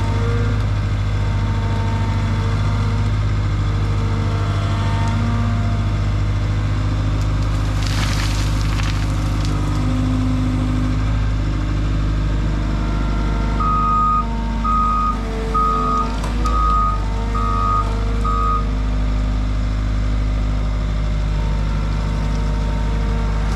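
Skid steer engine running steadily, with its backup alarm beeping six times in a row about halfway through as it reverses.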